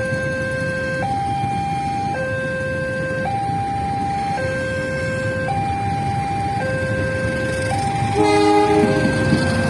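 Railway level-crossing warning alarm sounding two electronic tones, a low note and a higher note alternating about twice a second, over a steady rumble of road traffic. About eight seconds in, a horn sounds briefly, under a second long, and the overall sound grows a little louder.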